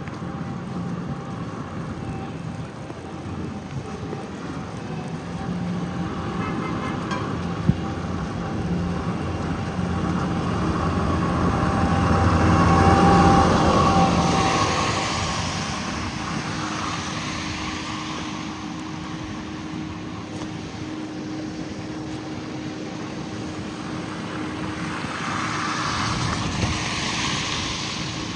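City street traffic: engines and tyres running steadily, with one vehicle passing close and loud about halfway through and another, quieter, near the end.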